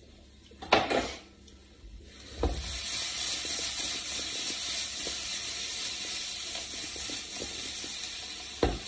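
Brussels sprouts sizzling in a frying pan: a steady hiss starts about two and a half seconds in as the lid comes off, while they are turned with tongs. A couple of light knocks come before it and another near the end.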